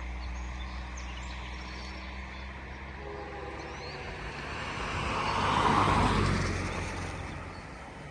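Low steady diesel rumble from an approaching freight train, with the swelling and fading noise of a road vehicle passing by, loudest about six seconds in.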